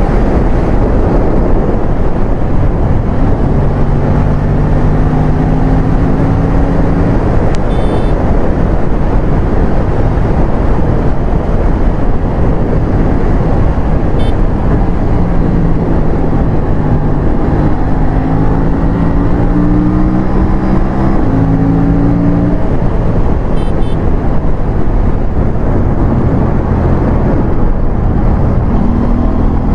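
Aprilia RS457's parallel-twin engine under way, its pitch climbing steadily through each gear and stepping with the gear changes, under heavy wind rush on the microphone.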